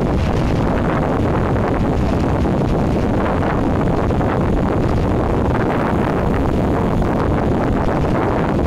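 Wind buffeting the microphone over the steady low rumble of a passenger boat under way.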